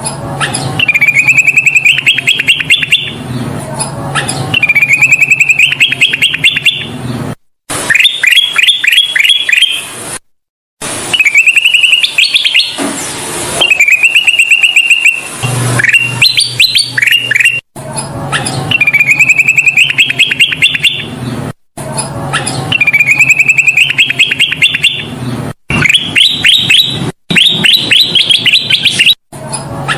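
Kutilang emas bulbul singing vigorously: repeated phrases of quick, rising chattering notes every few seconds. The track is spliced, with several abrupt brief cuts to silence between phrases and a low hum under some of them.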